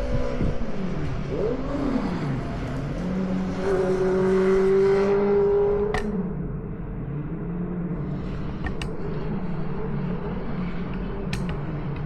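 Street traffic: motor vehicle engines rising and falling in pitch as they rev and pass, with one engine holding a steady note for a couple of seconds near the middle. A few sharp clicks or knocks come through in the second half.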